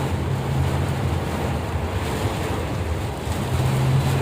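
Steady rushing noise of heavy rain and wind, with a low, steady drone underneath.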